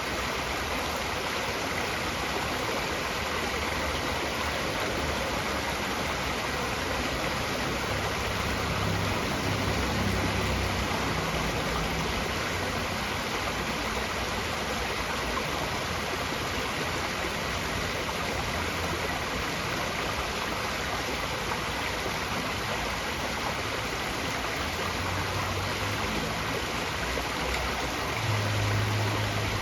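Steady rushing of flowing water, like a stream. A low rumble swells briefly about ten seconds in and again near the end.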